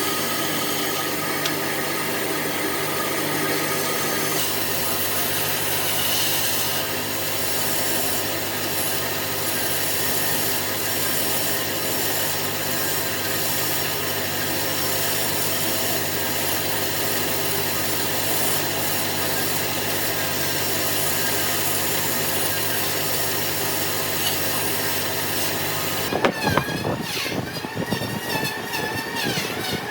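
An electric power tool running steadily against wood, a constant motor hum under a rasping noise. About four-fifths of the way through it gives way abruptly to a sharper, irregular sound.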